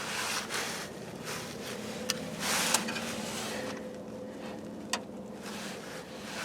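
Razor blade scraping and slicing at a stiff rubber power steering hose end, with rustling handling noise and a few sharp clicks.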